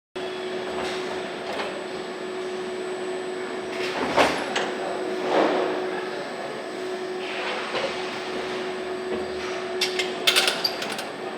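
Engine assembly line machinery: a steady hum with one constant tone, swells of rushing air, and a quick run of metal clicks and clinks near the end.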